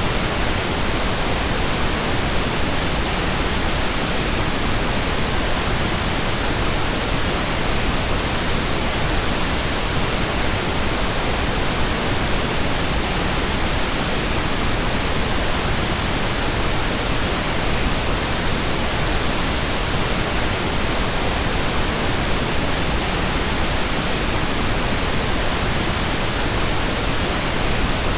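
Steady pink noise: an even, unchanging hiss spread across the whole range of pitch, with no events or changes.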